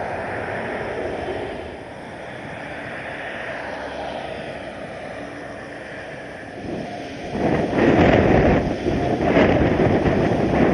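Jet engine noise from a Boeing 787-9 landing, a steady rushing sound. From about seven seconds in, strong gusty wind buffets the microphone in loud irregular surges that drown it out.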